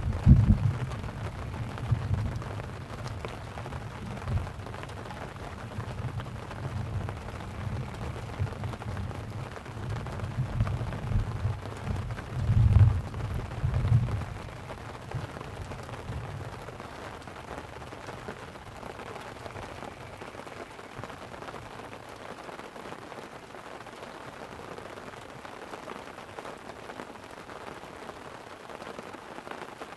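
Rolling thunder rumbling low through the first half, swelling right at the start and again after about twelve seconds, then dying away. Steady light rain patters on a tent throughout.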